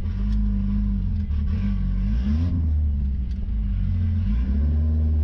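Ford 2.3-litre turbo four-cylinder in a 1963 Volvo Amazon running at low revs, with a short rise in pitch about two seconds in.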